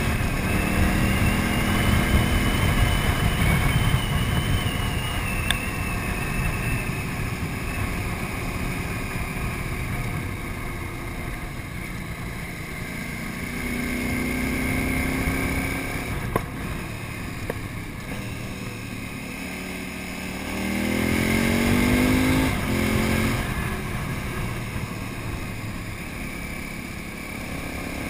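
KTM 950 Super Enduro's V-twin engine running at speed on a gravel road. The revs ease off through the middle, then climb in a rising sweep about three quarters of the way through as the bike accelerates hard, before settling back.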